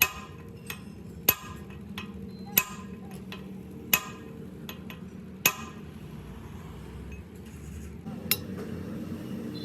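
Hammer blows on steel, sharp ringing metallic strikes about every two-thirds of a second, every other one louder. They stop about halfway through, with one more strike near the end.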